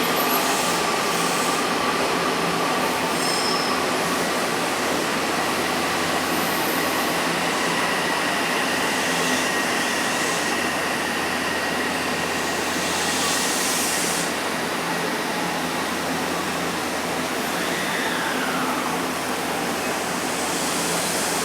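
Electric commuter train at a station: steady running and machinery noise with a held whine, a short hiss about two-thirds of the way through, and a whine that falls in pitch near the end.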